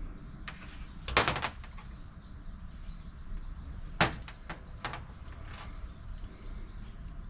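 Small clicks and knocks of hands working a plastic wiring-harness connector and parts on a Honda EU2000i generator: a quick run of clicks about a second in, a sharp single click about four seconds in, then a few lighter ticks.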